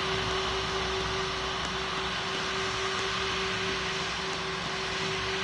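Steady cabin noise inside a Boeing 777 airliner: an even rushing sound with a constant low hum running under it.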